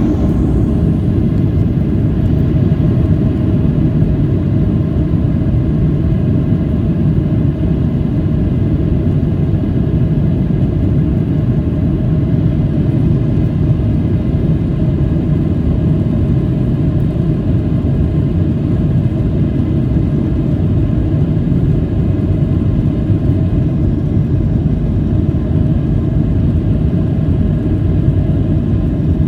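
Steady jet airliner cabin rumble: engine and airflow noise heard from inside the passenger cabin, holding at an even level.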